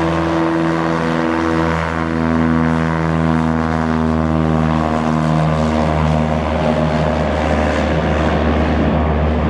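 Propeller airplane passing close by, its engine and propeller running loud and steady with the pitch slowly falling.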